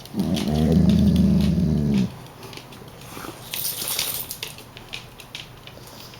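A dog's low growl, held for about two seconds, during rough play with a kitten. It is followed by faint clicks and rustling.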